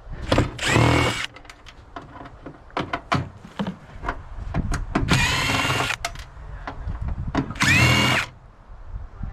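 Handheld power tool run in three short bursts, its whine rising as it spins up each time, between clicks and knocks of metal being handled.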